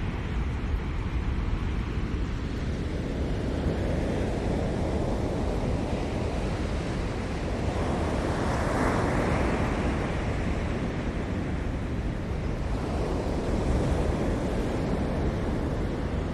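Ocean surf breaking on a shore: a continuous rush with a deep rumble, one wave swelling to a crash about nine seconds in and washing back, with a smaller surge near the end.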